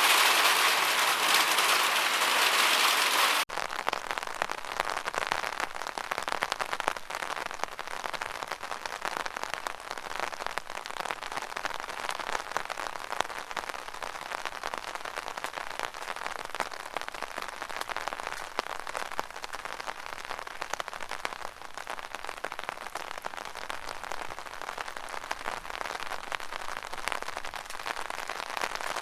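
Rainwater in a gutter: a loud, dense rush for about the first three and a half seconds, then a sudden cut to a quieter, crackling patter of many small drops.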